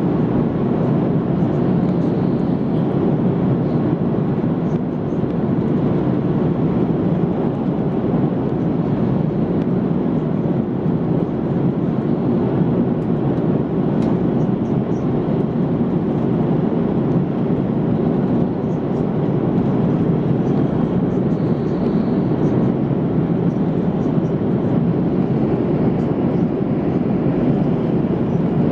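Steady cabin noise inside an Airbus A330-200 airliner in flight: the even rush of engines and airflow, without a break or change in pitch.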